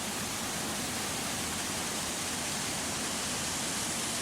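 A high, multi-step waterfall: heavy falling water heard as a steady, very loud rush with no break or change.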